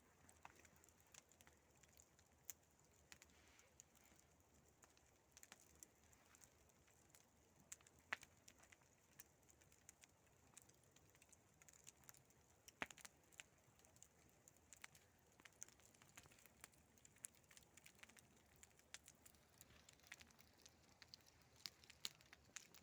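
Wood campfire crackling faintly, with many small irregular pops and a couple of sharper snaps about 8 and 13 seconds in.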